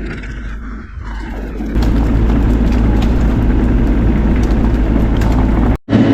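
Diesel engine of a Bobcat E42 mini excavator running, going up to a loud, steady high-power run under load about two seconds in. It cuts out briefly near the end.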